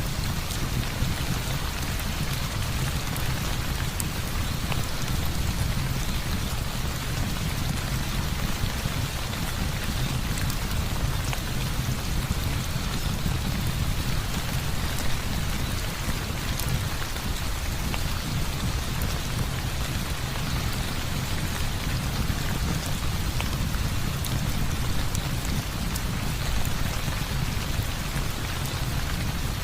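Heavy rain falling steadily, with a low rumble underneath and an occasional faint click.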